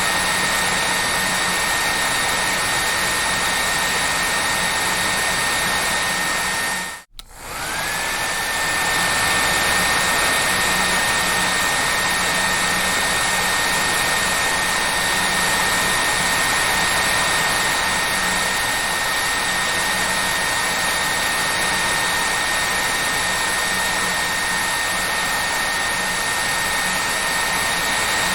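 Hair dryer running steadily, a loud airy rush with a high whine. About seven seconds in it cuts out for a moment, then comes back with the whine rising as the motor spins up again.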